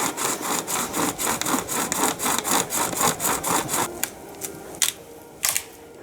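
Hand saw cutting through wood in quick, even strokes, about five a second. The sawing stops about four seconds in, and a couple of light knocks follow.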